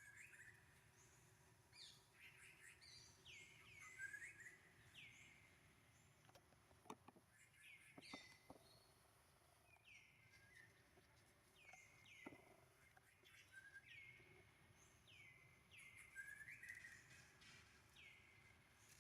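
Faint, repeated high-pitched chirping calls, each falling in pitch, coming about once a second, with a few soft clicks near the middle.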